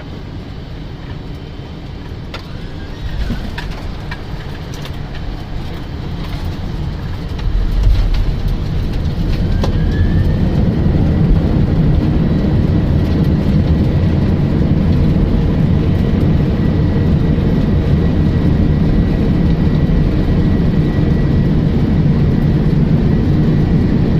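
Boeing 747 on its landing roll, heard from the cockpit: a rumble with a few bumps, then about eight seconds in the engines spool up with a rising whine into a loud steady roar, as with reverse thrust after touchdown.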